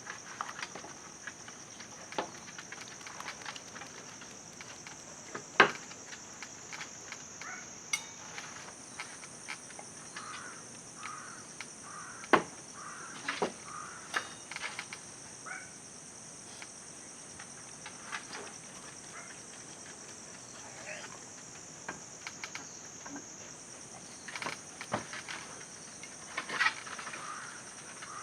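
Steady high-pitched insect chorus, with scattered sharp clicks and knocks, the loudest about five and twelve seconds in.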